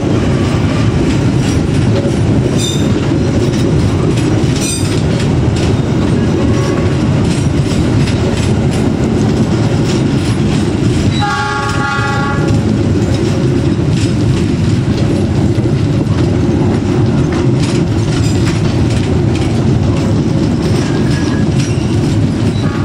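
Passenger train running past close by: a steady heavy rumble with wheels clattering over the rail joints. A train horn sounds once about eleven seconds in, for about a second and a half.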